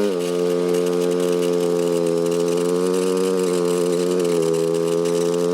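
Engine of a Polaris RZR side-by-side UTV running at a steady speed, its pitch holding nearly level with only slight dips.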